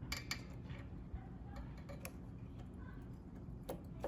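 A few scattered, faint clicks of small metal parts and hand tools as a hose clamp is fitted onto the mower's fuel line.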